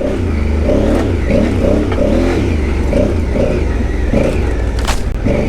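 Twin-cylinder adventure motorcycle engine ridden off-road, its revs rising and falling again and again with the throttle over a steady low rumble. A single sharp knock comes near the end.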